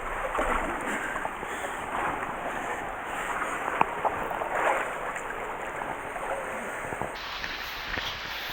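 Steady rush of water from a mountain headwater stream, with a few light knocks.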